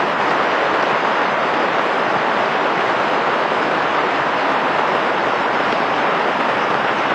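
Steady rain falling: a loud, even hiss with no breaks or changes.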